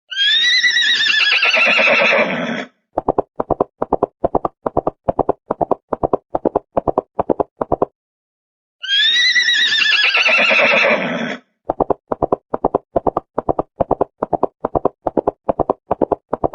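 A horse whinnies with a wavering, falling pitch, then hooves clip-clop at about three to four beats a second for several seconds. After a short pause the same whinny and hoofbeats repeat exactly, a looped sound effect.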